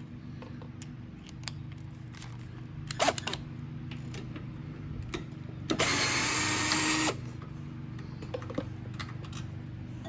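Hand tools clicking and knocking on metal while the carburetor is worked loose from a Briggs & Stratton 190cc mower engine, over a steady low hum. Just past the middle a loud hiss lasts a little over a second.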